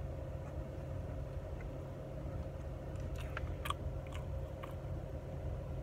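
A person chewing with quiet mouth sounds, and a few faint clicks about three seconds in, over a steady low hum inside a car.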